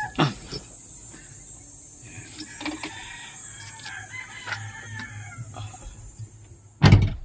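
Background bird calls, a few faint descending calls in the middle, with a loud knock near the end.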